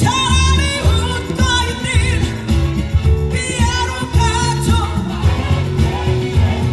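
Live pop music from a band with a woman singing held notes with vibrato over a steady low beat.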